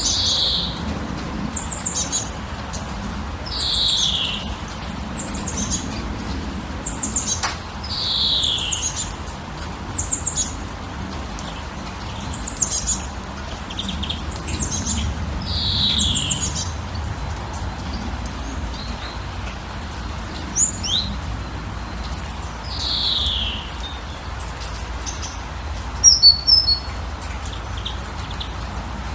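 Wild birds singing: one bird repeats a short falling whistle every three to four seconds while others add quick high chirps, over a steady background hiss. A brief burst of sharp high notes comes near the end.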